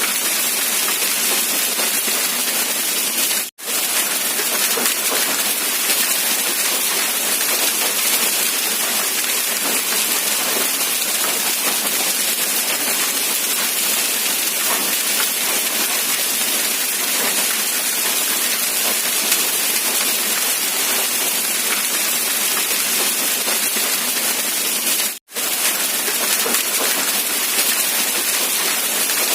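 Steady rain falling, an even hiss of drops. It cuts out for a split second twice, a few seconds in and again about 25 seconds in.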